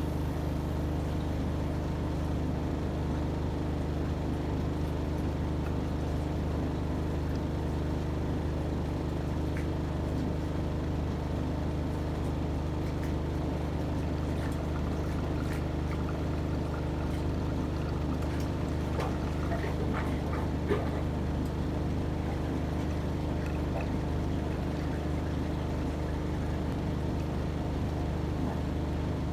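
AEG Öko-Lavamat 73749 front-loading washing machine running steadily in its 95 °C boil-wash programme: a constant motor hum with water sloshing in the drum. A few faint clicks come in the second half, the loudest about two-thirds of the way through.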